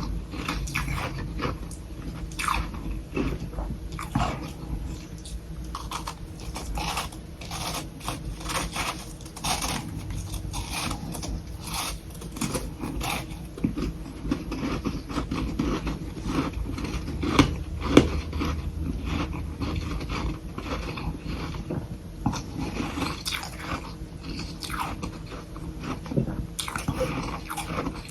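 A person biting and chewing soft sticks of humidifier-grown freezer frost, close to the microphone. The crunching is dense and irregular, with two sharper bites about two-thirds of the way through.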